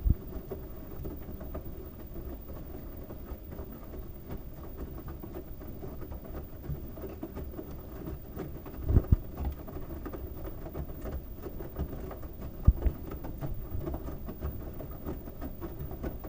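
LG washing machine drum turning a load of wet towels, with a steady low rumble and patter of water, and two louder thumps about nine and twelve and a half seconds in.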